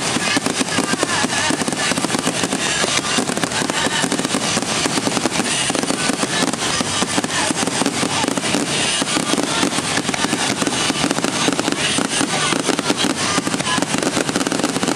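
Fireworks going off in a dense, continuous barrage of rapid crackles and bangs, with no pauses.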